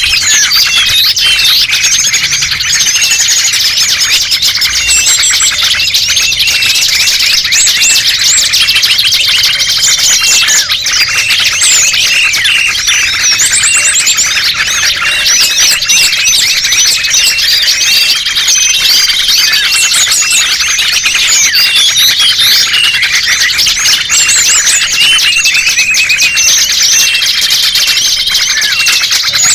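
Dense, unbroken chorus of many small songbirds chirping and trilling over one another in high, rapid calls: a bird-lure recording made to draw small wild birds in.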